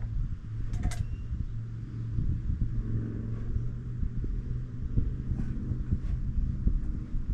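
A low, steady engine rumble, like a motor vehicle running nearby, with a sharp knock about a second in and a few faint taps later.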